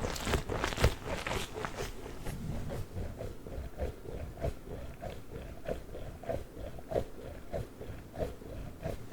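A giant Orbeez water-bead ball being handled close to the microphone. It starts with a dense flurry of short sounds, then settles into a steady run of short pulses about two a second.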